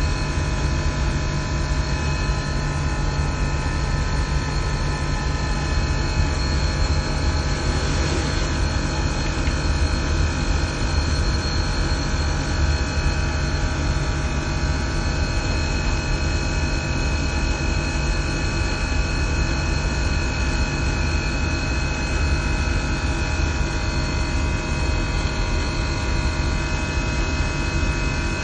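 Systemair chiller and fan-coil HVAC machinery running, a steady, even machine noise with several constant tones over it that holds without change.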